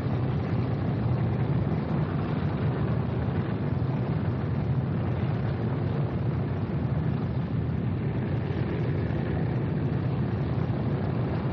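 Aircraft engines running with a steady, low, even noise that does not change.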